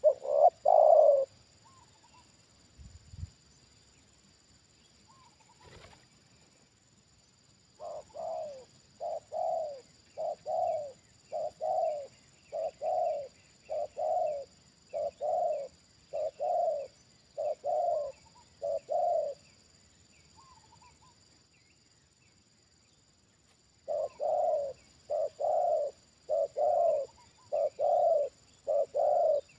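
Spotted dove cooing in short, evenly spaced coos about one a second: two loud ones at the start, a run of about a dozen from roughly a quarter of the way in, a pause, then another run near the end.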